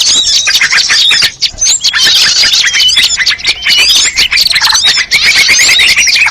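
A loud, dense chorus of small songbirds' chirps and whistles overlapping one another: a mixed-species bird-lure call track of bulbuls and prinias. A fast run of evenly repeated notes comes in near the end.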